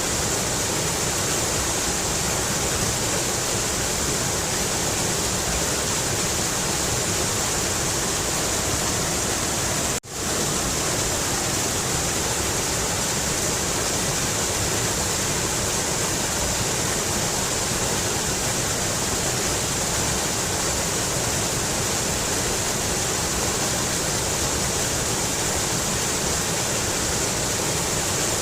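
Mountain river's water rushing in a steady, unbroken roar. About ten seconds in it cuts out for a moment and fades straight back in.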